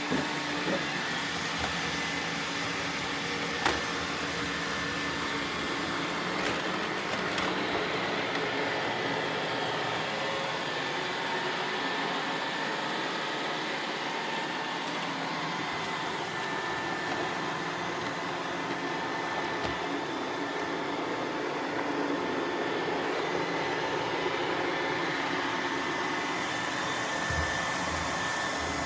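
Roomba robot vacuums running as they clean up confetti: a steady whir of suction fans and brushes with a few faint steady whining tones, and a sharp click a few seconds in.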